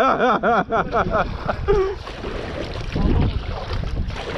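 A person's voice in a quick run of rising-and-falling calls for about the first second, then wind buffeting the microphone over water noise from kayaks on the river.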